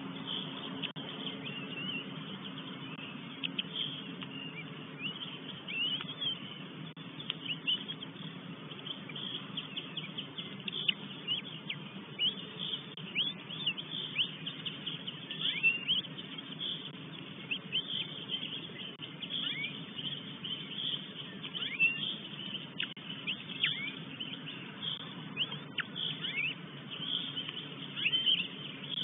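Small birds chirping and calling, many short quick notes scattered throughout, over a steady low hum.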